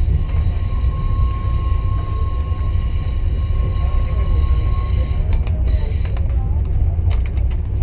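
Low, steady rumble of a moving passenger train heard from on board, with a thin steady whine that stops about five seconds in. A few sharp clicks follow near the end.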